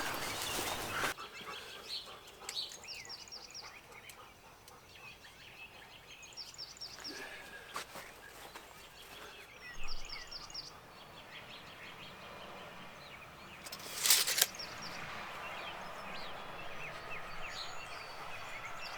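Birds calling in repeated short chirps and trills over quiet outdoor background, after a steady noise cuts off about a second in. A brief loud burst of noise about fourteen seconds in.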